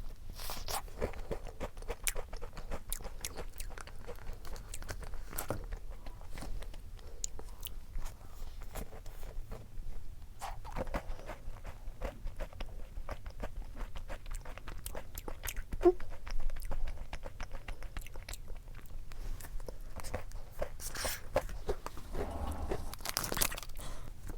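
Close-miked eating: a person biting into and chewing a milk-cream-filled bungeoppang (fish-shaped pastry), with many small crisp crunches and wet chewing sounds.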